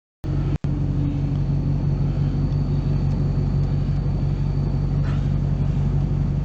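Steady low rumble of a car heard from inside the cabin, engine and road noise running evenly; it cuts in abruptly just after the start with a brief dropout a moment later.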